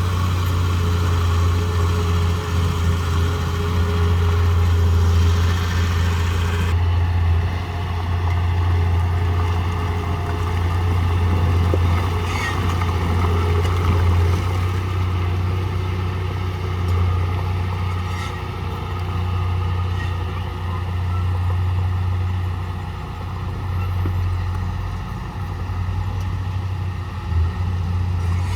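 Heavy diesel engine of earth-moving machinery running steadily under load, a deep continuous drone; the higher hiss drops away abruptly about a quarter of the way in.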